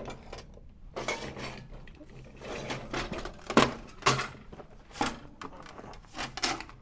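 Irregular knocks, clatters and rustles of handling, about half a dozen sharp ones, the loudest a little past halfway.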